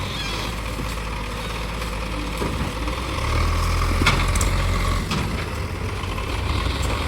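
Diesel engines running as a JCB backhoe loader push-starts a tractor whose battery has gone flat. The engine rumble grows louder about three seconds in for a couple of seconds, with a few sharp knocks along the way.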